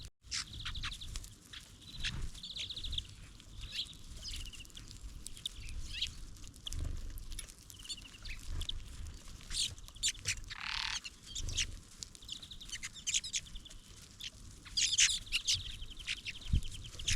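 Small songbirds calling: many short high chirps and several rapid buzzy trills, with scattered light clicks and low rumbles underneath.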